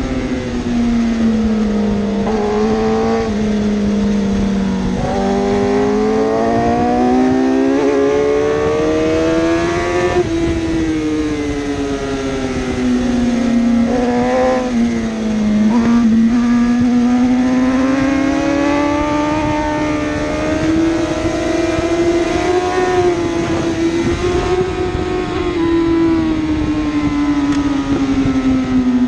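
1000cc superbike racing motorcycle engines at high revs, their pitch rising and falling as the bikes accelerate and brake. One engine note dominates, and other bikes' engines briefly sweep in and out over it.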